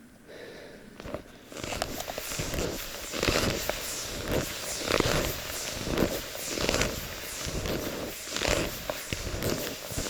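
Skis swishing and crunching through deep snow in a steady stride, one stroke under a second apart.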